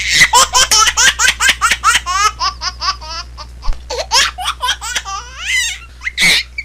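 Baby laughing: quick, high-pitched giggles, several a second, with a louder squeal about six seconds in. A steady low hum runs underneath.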